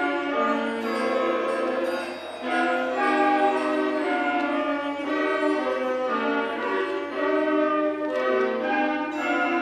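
Fifth-grade school concert band playing a piece in held, full chords. The phrases change every second or so, with brief breaks in the sound about two seconds in and again about seven seconds in.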